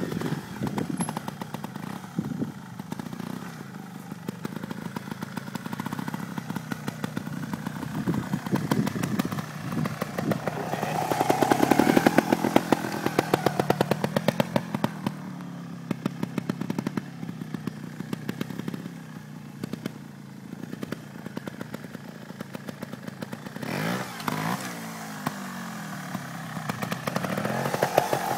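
Trials motorcycle engine running at low revs, with throttle blips that rise and fall in pitch: a longer rev from about ten to fourteen seconds in, and another burst about twenty-four seconds in.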